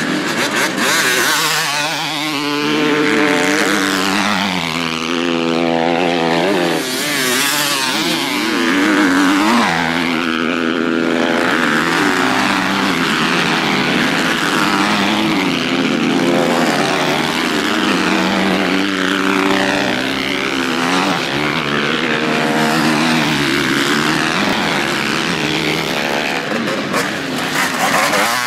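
Several motocross bikes racing on a dirt track, their engines revving up and down with overlapping rising and falling pitches as the riders accelerate and shift.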